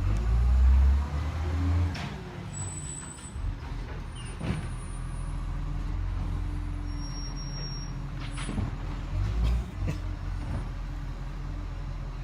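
Garbage truck engine running steadily, with heavier low surges near the start and about nine seconds in and a few short knocks.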